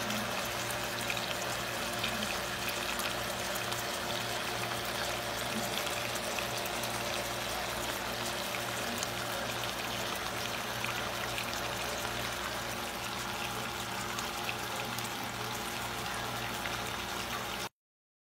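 Chicken pieces with sliced onion and peppers frying in oil in a pan: a steady sizzle full of fine crackles, over a low steady hum. It cuts off abruptly near the end.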